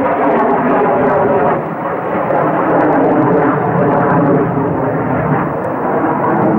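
Military jet aircraft flying overhead, its engine noise loud and continuous, dipping slightly about two seconds in and again near the end.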